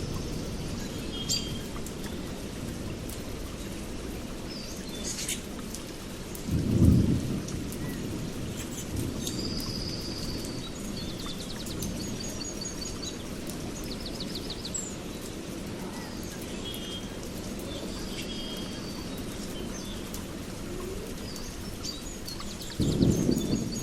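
Steady rain with thunder rumbling low, swelling once about seven seconds in and again near the end, while birds chirp and trill.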